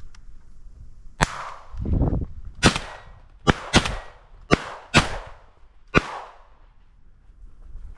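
A run of seven sharp gunshot-like cracks at uneven intervals over about five seconds, each with a short echoing tail, typical of shotgun fire some distance off across open fields.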